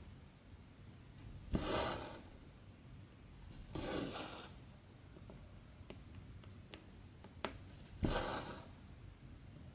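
Cotton embroidery thread drawn through 14-count cross-stitch fabric: three swishes, each starting with a light tick, at about two, four and eight seconds in. A few faint needle clicks fall between the second and third.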